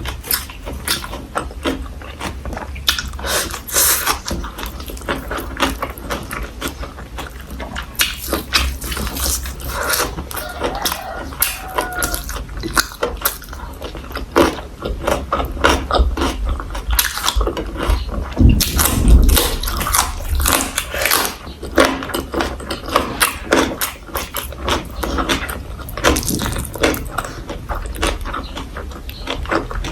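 Close-miked chewing and biting of food: a dense run of crisp crunches and wet mouth clicks, with a low rumble beneath.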